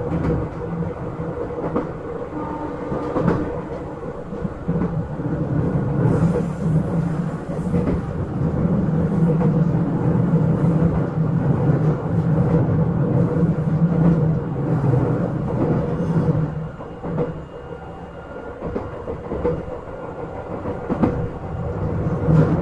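Izukyu 8000 series electric train running, heard from inside the car: a steady rumble of wheels on rails and traction equipment. It drops quieter for a few seconds near the end, then picks up again.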